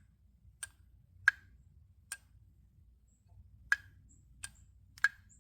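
Six sharp, single clicks at uneven intervals from a removed Audi throttle body. A loose wheel inside its cover is moving freely, which is normal and does not mean the throttle body is bad.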